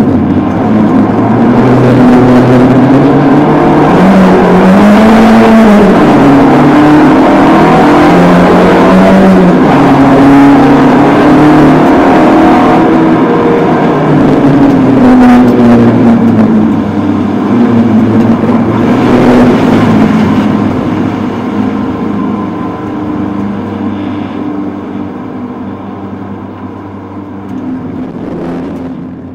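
Citroën AX Sport rally car's four-cylinder engine heard from inside the cabin, driven hard, its note climbing and dropping again and again. It grows steadily fainter over the last several seconds.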